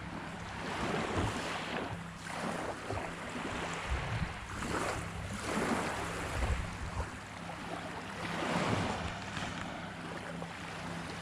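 Surf washing onto the beach in irregular swells, with wind gusting across the microphone and a steady low hum underneath.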